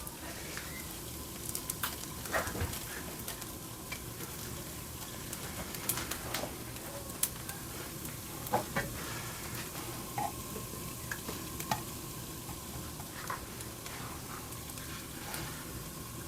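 Parmesan cheese crisps topped with bacon sizzling in a frying pan, a steady sizzle with scattered crackles and pops, as the cheese browns on its second side.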